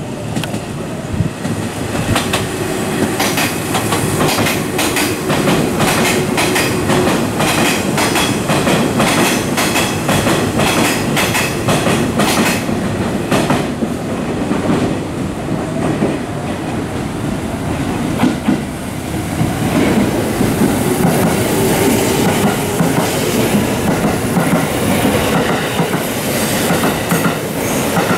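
Hanshin out-of-service electric train passing through a station platform without stopping, its wheels clattering over the rail joints in a long run of regular clicks. In the later part a humming tone rises slowly in pitch.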